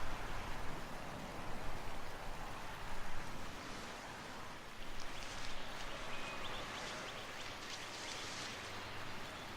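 Steady outdoor ambient noise, with faint light ticks and rustles coming in about halfway through.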